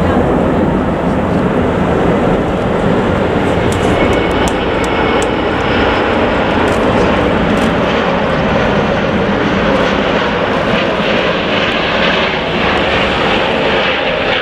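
Jet airliner's engines, a loud steady rush of engine noise that holds level throughout.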